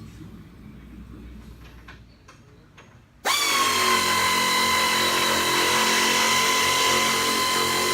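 Handheld power tool motor spinning up about three seconds in and then running at a steady high whine.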